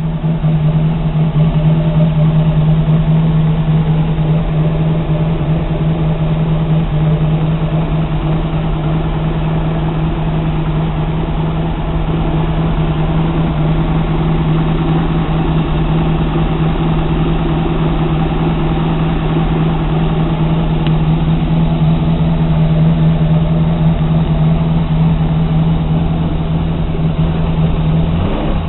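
Ford 351 Windsor V-8 marine inboard engine running at a steady idle, its pitch shifting briefly near the end.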